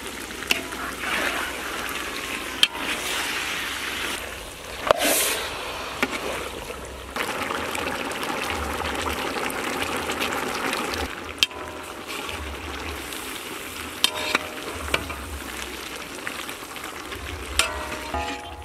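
Chicken pieces frying with a steady sizzle in a large iron kadai, stirred with a long metal ladle that scrapes and knocks against the pan every few seconds, the strikes sometimes leaving a short metallic ring.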